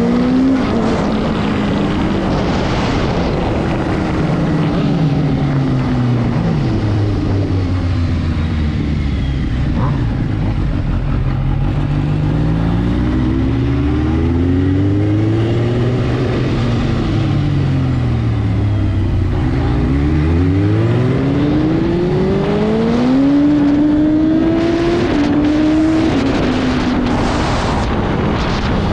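Superbike engines accelerating hard through the gears: the pitch climbs and drops back again and again as the bikes shift up and slow down. More than one bike is heard at once, with pitches crossing each other, under steady wind rush.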